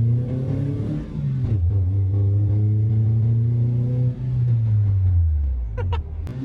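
1976 Mitsubishi Lancer's four-cylinder engine accelerating, heard from inside the cabin: the revs climb, drop at a gear change about a second and a half in, climb again, and ease off after another change about four seconds in. A few sharp clicks near the end.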